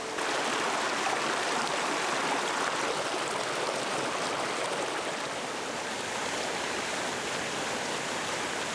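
Mountain stream flowing steadily: an even rush of water.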